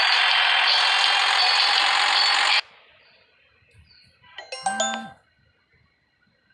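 A loud, steady rattling, scraping noise that cuts off suddenly, then a short chime of several ringing tones about two seconds later.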